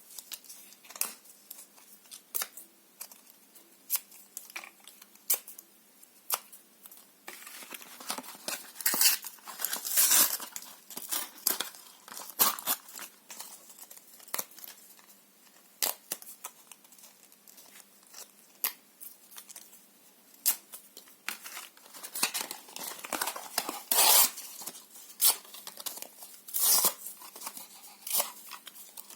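Paper and cardboard being torn and crumpled by hand: scattered sharp crackles and crinkling, with longer tearing rips about a third of the way in and again near the end.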